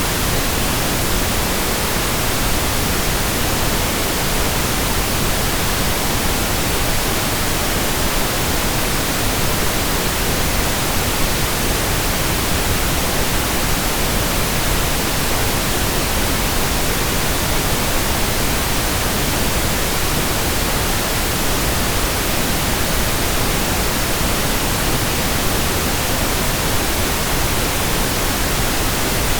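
Continuous synthetic pink noise: an even, steady hiss spread across all pitches, with no changes or events.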